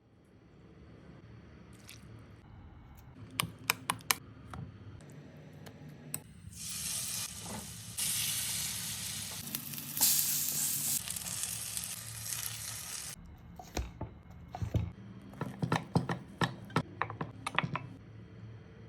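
Batter-coated bread pakoda frying in hot oil: a loud sizzle starts about six seconds in and cuts off suddenly around thirteen seconds. Sharp clicks and taps come before and after it.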